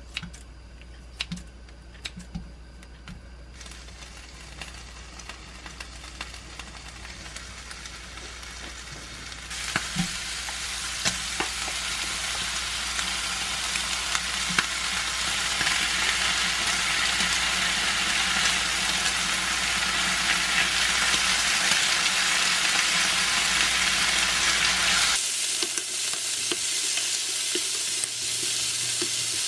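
Sliced duck meat sizzling in a frying pan, with a few sharp snips of kitchen scissors cutting it in the first seconds. About ten seconds in the sizzling jumps much louder as mustard-leaf kimchi goes into the pan, and near the end the mix is stirred with a wooden spatula.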